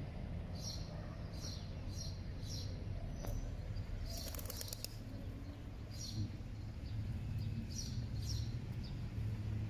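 A bird chirping over and over, short high chirps about two a second, with a quick run of rapid chirps about four seconds in, over a steady low rumble.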